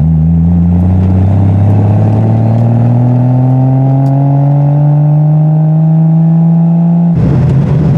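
Triumph TR6's straight-six engine pulling under throttle through its Monza exhaust with steel resonators, the note rising slowly and steadily as revs climb. About seven seconds in, the smooth rising note ends abruptly.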